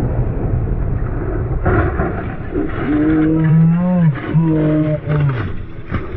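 Steady low rumble of a vehicle, with two long, low, drawn-out pitched sounds about three and four and a half seconds in, each falling away at its end.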